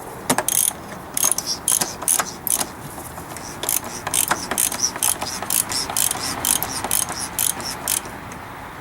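Ratchet wrench clicking in short strokes as the oil filter housing cap is screwed back down and snugged up.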